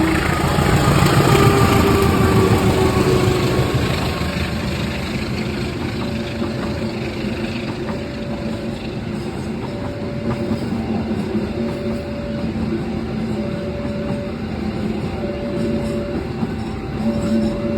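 Passenger train arriving. The diesel-electric locomotive passes loudly, with falling tones, in the first few seconds. Then the carriages roll by on the rails while a two-tone electronic warning signal alternates, about one cycle every two seconds.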